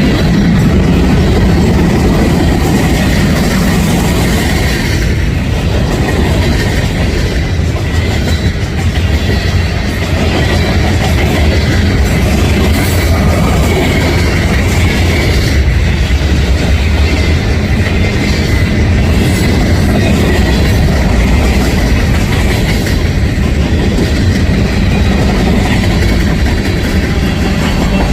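Freight cars of a Union Pacific manifest train rolling past close by, a steady loud rumble with wheels clattering over the rail joints.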